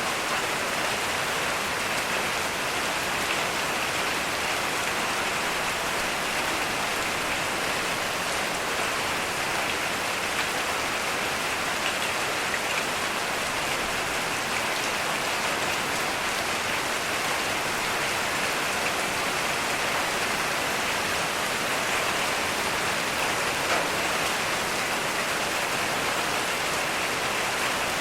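Heavy rain falling steadily and evenly, with no thunder.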